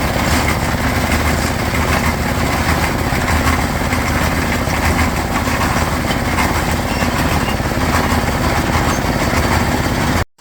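Small engine of concrete-pouring equipment running steadily at a constant speed, then cutting off suddenly near the end.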